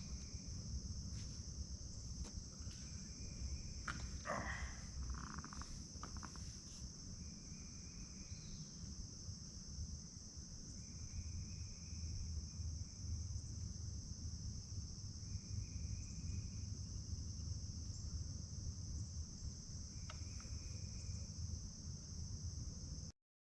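Crickets chirping in a steady, high-pitched chorus over a low outdoor rumble, with a few short faint calls every few seconds. It cuts off to silence near the end.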